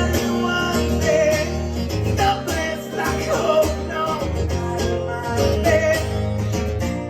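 Live band music played through a venue PA: guitars strumming with bass and drums, with no singing in this stretch.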